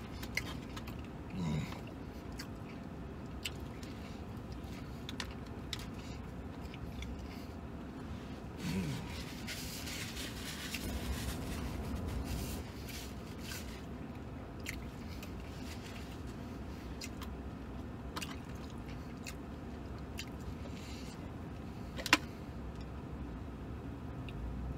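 A man chewing and eating a sandwich with small wet mouth clicks, over a steady low hum. A paper napkin rustles for a few seconds near the middle, and one sharp click comes near the end.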